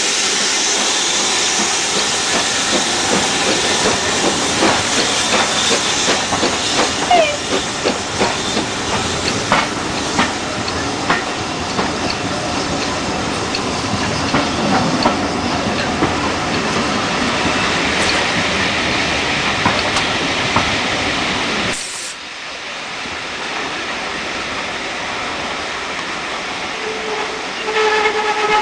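A train passes close alongside: a loud steady rush and hiss with irregular clicks of wheels over rail joints. The noise drops suddenly about three-quarters of the way through. Near the end a steam locomotive whistle starts, a steady pitched tone.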